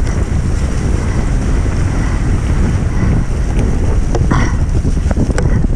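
Wind buffeting the microphone of a rider-mounted camera on a fast mountain-bike descent, with scattered knocks and rattles from the bike over rough ground.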